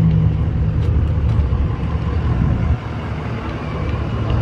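Truck engine running with a deep, low rumble that eases off a little about three seconds in.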